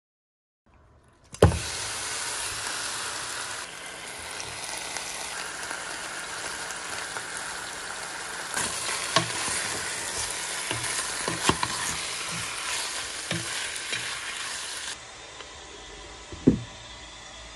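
Chicken pieces sizzling in a pot, a steady hiss broken by a few utensil knocks, with a sharp knock about a second and a half in and another near the end.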